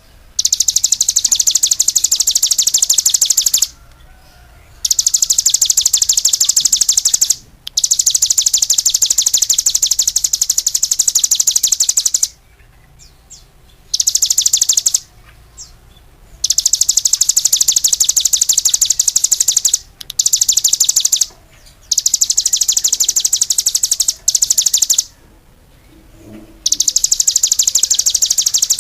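Songbird singing long, very fast, high-pitched trills, each lasting one to four seconds and broken by short pauses.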